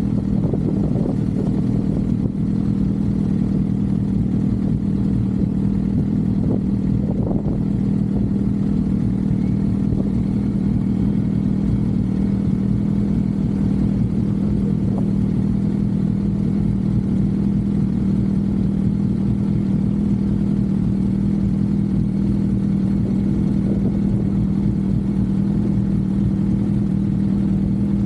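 Suzuki GSX-R750 inline-four engine running at a steady engine speed while cruising, its note holding one even pitch, with a low rumble of wind and road underneath.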